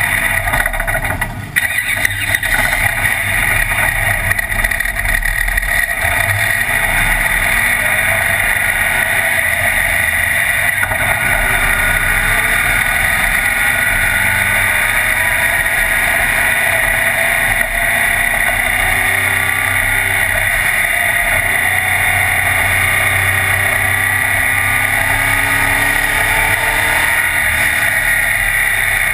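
Race car engine heard from inside the cockpit, running loud and steady, its revs rising and falling gently, with road and wind noise.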